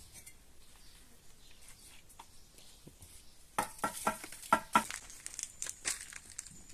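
Quiet at first, then about three and a half seconds in a quick run of crinkling, crackling handling noises lasting about two seconds.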